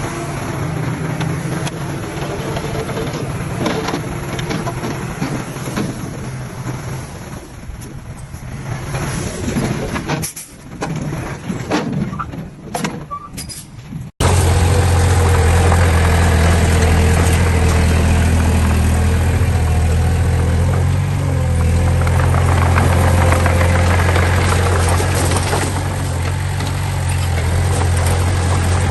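Heavy diesel machinery at work: uneven engine noise with scattered knocks and clanks that fades somewhat. About halfway through it cuts off abruptly to a loud, steady low engine drone.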